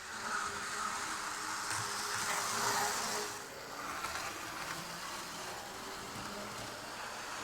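HO-scale model railcar running on track, its Tenshodo motor bogie whirring and wheels hissing on the rails. The noise swells to a peak just under three seconds in, then eases off, as of the model passing close by.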